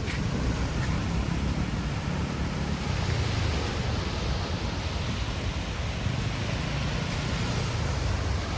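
Surf washing onto a sandy beach, the hiss of the water swelling a couple of seconds in, with wind rumbling on the microphone.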